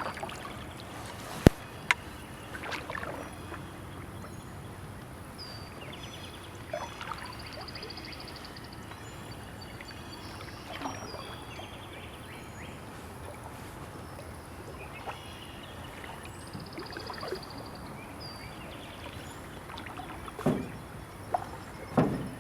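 Canoe paddling on a creek: paddle strokes dipping and splashing every few seconds over a steady wash of moving water, with two sharp knocks of wood or paddle on the hull about a second and a half in. Birds chirp and trill now and then.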